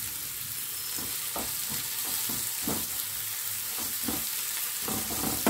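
Onions, green chillies and curry leaves sizzling in hot oil in a frying pan. From about a second in, a spatula repeatedly scrapes and stirs through them.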